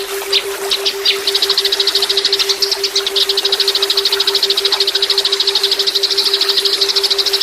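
Recorded bird song: a few separate sharp high chirps, then from about a second in a long, rapid, even trill of high notes, the 'tembakan' (machine-gun) song of the cililin. A steady low tone from an added brainwave track hums underneath throughout.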